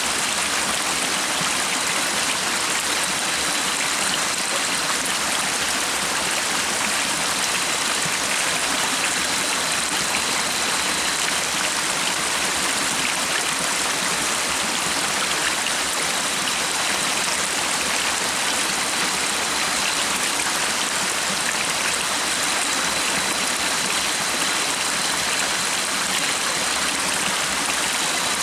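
Stream water running in a steady, unbroken rush, with a faint thin high tone coming and going above it.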